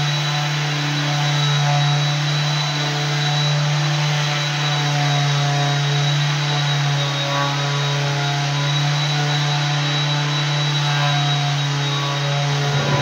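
Electric floor sanding machine running steadily, a deep hum with a thin high whine over a wash of motor noise.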